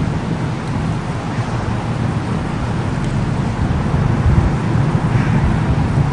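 Thunderstorm noise: a steady low rumble of thunder under the hiss of rain.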